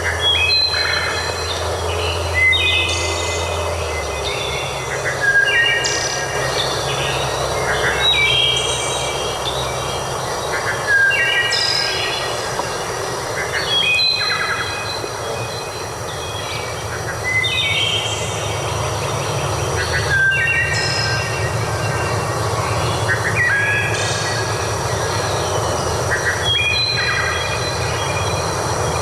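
Birds singing short phrases of stepped, whistled notes every two to three seconds, over a steady rushing noise and a low hum.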